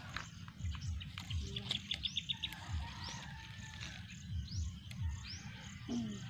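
Birds chirping: a short rising call repeated every second or so, with a quick run of about six ticks about two seconds in.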